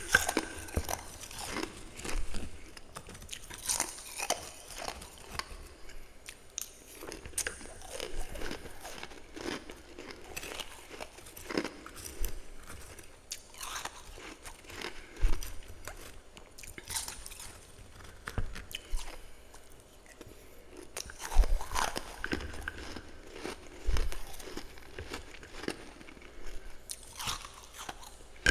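A person biting and chewing powdery freezer frost close to the microphone: irregular, crackly crunches that come in clusters every second or two.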